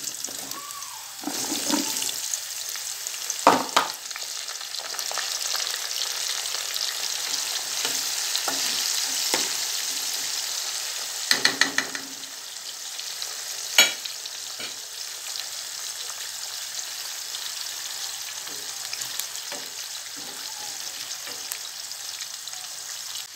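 Cubed zucchini sizzling as it deep-fries in a large pot of hot oil, a steady hiss that swells after the pieces go in. A few sharp knocks of utensils on the pot stand out, the loudest about three and a half, eleven and fourteen seconds in.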